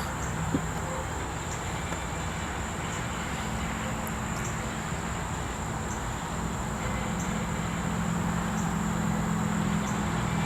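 A steady low mechanical hum, like a motor running, with a constant thin high-pitched tone above it. The hum grows a little fuller after about seven seconds.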